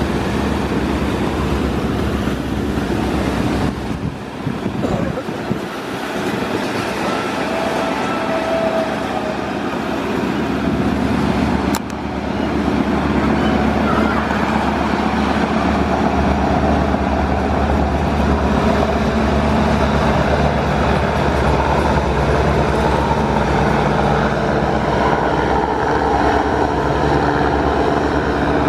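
Diesel engine of a river passenger launch running steadily under way, a constant low hum with noise over it. A sharp click near the middle, after which it is a little louder.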